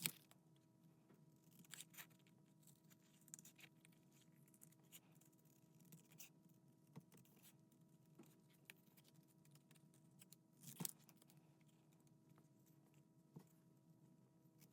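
Small scissors snipping cardstock, faint and irregular, while cutting closely around a stamped image (fussy cutting); one louder snip about eleven seconds in.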